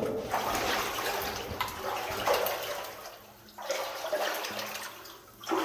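Water splashing and sloshing as someone moves through a narrow, wet mine passage, in two stretches with short pauses.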